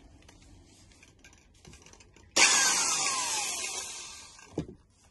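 Power drill run in one short burst, boring a hole for a Helicoil thread insert in a plastic RC chassis part. It starts abruptly about halfway in, with a pitch that falls as it slows and fades over about two seconds, and it ends in a sharp click.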